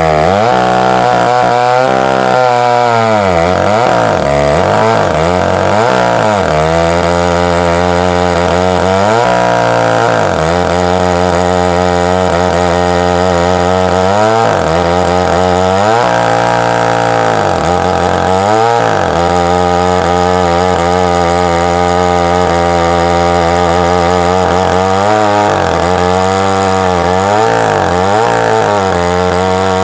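Husqvarna chainsaw mounted in a chainsaw mill, running at high speed while ripping a log lengthwise. The engine note sags and picks back up repeatedly as the cut loads the saw.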